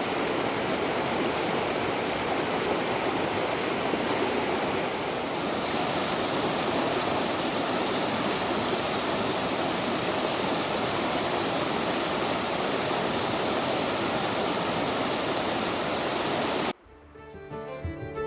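Waterfall pouring with a steady rushing roar, cut off suddenly near the end, where violin music comes in.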